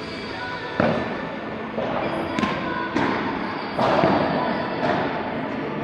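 Padel rally: about six sharp pops of the ball off the rackets and the court, roughly a second apart, with a ring of echo after each.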